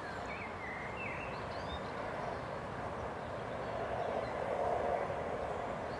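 Steady rumble of a distant electric train running on the line, swelling slightly about two-thirds of the way through. Birds chirp over it a few times in the first couple of seconds.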